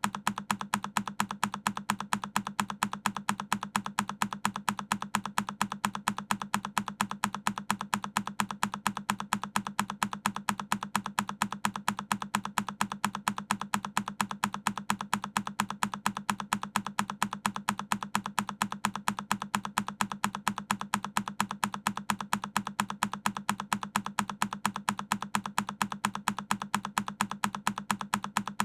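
A single key on a Keychron K10 mechanical keyboard pressed over and over, sharp clicks repeating in an even rhythm several times a second.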